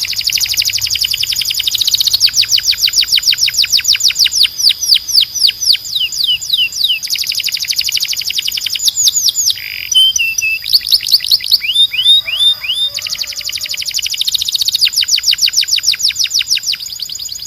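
A canary singing: long trills of rapid, repeated downward-sweeping whistled notes. The pace changes several times, with a few slower separate notes around the middle, and the song stops near the end.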